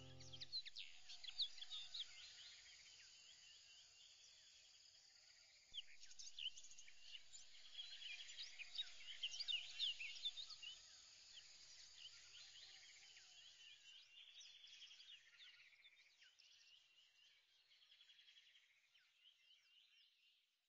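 Faint chorus of birds chirping: many short rising and falling calls, busiest from about six seconds in and fading out near the end.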